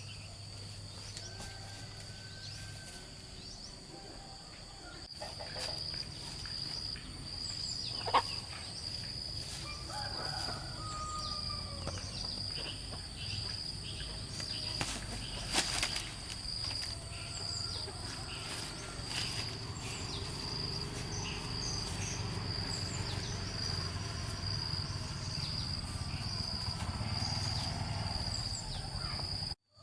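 Rural outdoor ambience: a steady high-pitched insect drone sets in a few seconds in, with scattered bird chirps and two sharp clicks or knocks.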